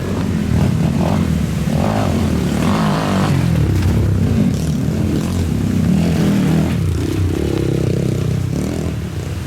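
Trail motorcycle engine running under a rider's throttle, its revs repeatedly rising and falling.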